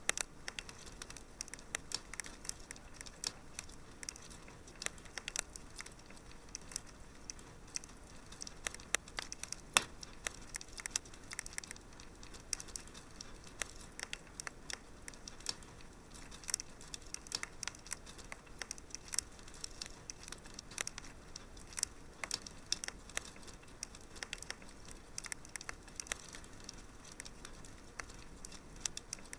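Wood fire crackling in a fireplace: irregular sharp pops and snaps over a soft steady hiss, with one louder pop about ten seconds in.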